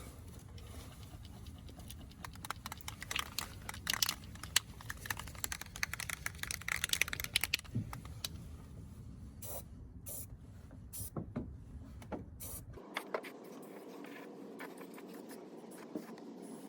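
Irregular small clicks, taps and light scrapes of objects being handled, over a low steady hum that stops abruptly about thirteen seconds in.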